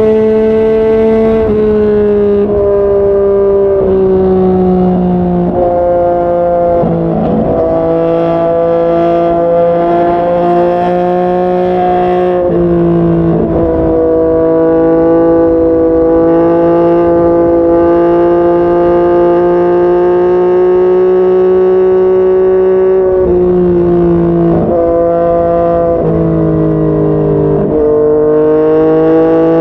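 Yamaha MT-09's three-cylinder engine and exhaust running under way. The note holds steady for several seconds at a time and steps or slides in pitch several times, as the revs change.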